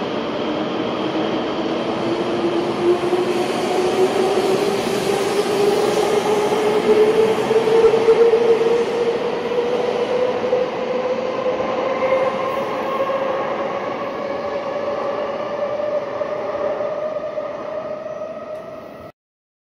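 THSR 700T high-speed electric train pulling out of an underground station platform. The rumble and rush of the train carries a whine from the traction motors that rises slowly in pitch as the train picks up speed. It is loudest about eight seconds in, fades as the train moves away, then cuts off abruptly near the end.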